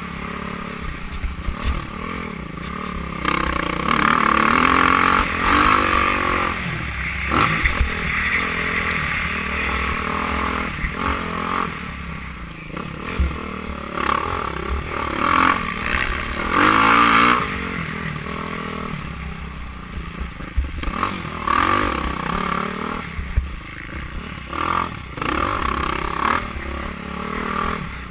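Motocross bikes racing, their engines revving up and falling away again and again as riders accelerate and shift.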